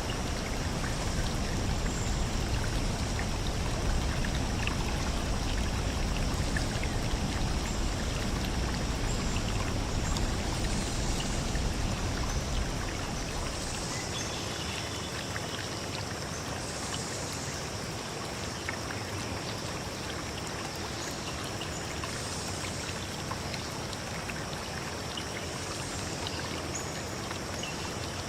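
Steady rushing of a flowing forest stream, with a deeper rumble underneath that eases off about halfway through.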